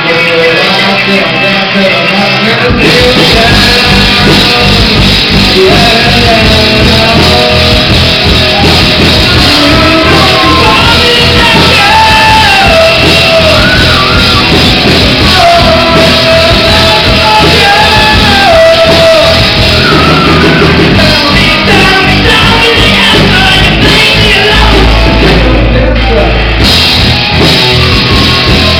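Rock band playing live with shouted, sung vocals over loud guitars and drums; the full band comes in about three seconds in after a sparser opening.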